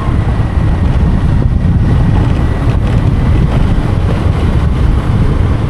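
Wind buffeting the microphone on a moving scooter, over the scooter running along a gravel road. The noise is steady and loud, heaviest in the low end.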